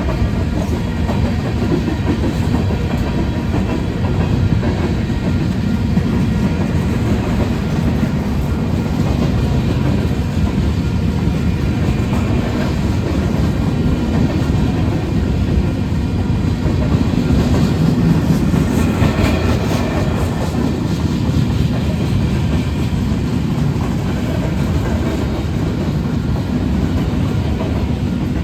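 A train's cars rolling past, with a steady rumble of steel wheels on the rails.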